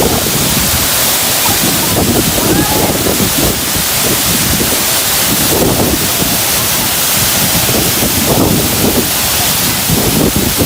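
Steady rush of a waterfall pouring into a pool, with voices calling out now and then over it.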